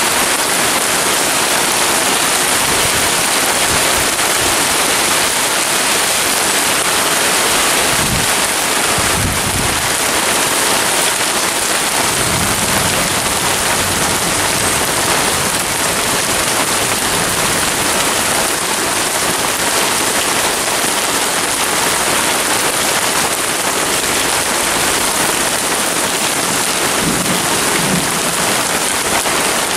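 Heavy rain falling in a steady, dense downpour during a thunderstorm. Brief low rumbles of thunder come through about eight and twelve seconds in.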